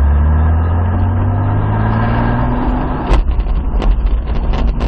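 Toyota Supra's engine accelerating hard under power, its note rising steadily for about two and a half seconds. Then the rise breaks off and a few sharp knocks follow.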